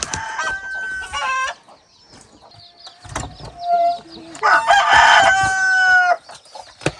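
Chickens calling, with one long, loud rooster crow from about four and a half seconds in, lasting under two seconds; shorter calls come in the first second and a half.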